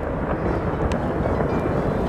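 Fireworks display between bursts: a steady low rumble, with a few faint, sharp pops as a shell's stars fade.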